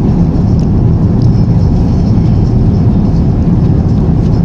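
Steady, low cabin rumble of an Airbus A350-900 airliner in flight: airflow and engine noise heard from inside the economy cabin.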